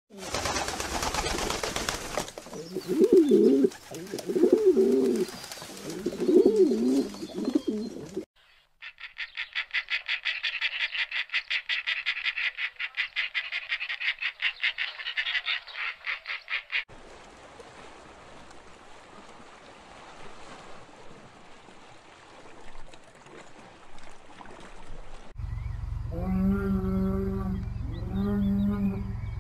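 A series of different animal calls, one after another: three low repeated calls over the first eight seconds, then a fast, even pulsed trill lasting about eight seconds, then a quiet stretch, and near the end two long, low calls.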